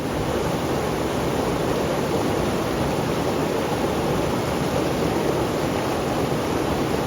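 Waterfall on the Bonnechere River rushing with a steady, unbroken roar of falling water.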